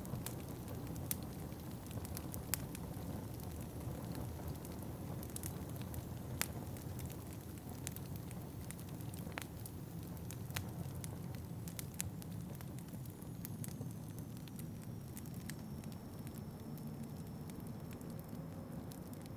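Wood fire crackling, with scattered sharp pops over a steady low rumble of wind. A faint thin high whistle comes in about two-thirds of the way through.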